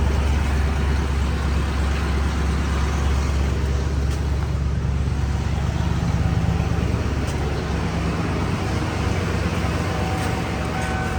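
Pickup truck engine idling steadily through its newly welded Y-pipe exhaust, with the catalytic converter removed and dual pipes out the rear.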